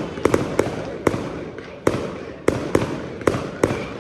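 Fireworks going off: a run of sharp bangs, about ten in four seconds, irregularly spaced, each trailing off briefly.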